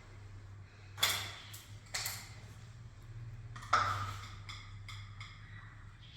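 Three sharp knocks about a second apart, the last the loudest, followed by a quick run of lighter ticks, over a steady low hum.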